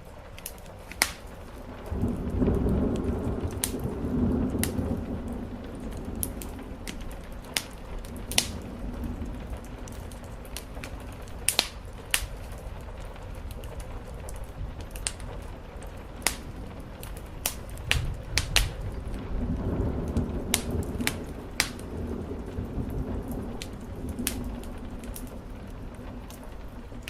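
Steady rain on a roof with two long rolls of thunder, one starting about two seconds in and another later on. Sharp pops of a crackling wood fire are scattered throughout.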